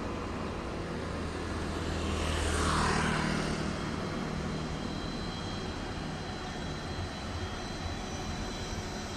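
A vehicle passing along the road, loudest about three seconds in with a falling whoosh, over a steady low rumble of street traffic.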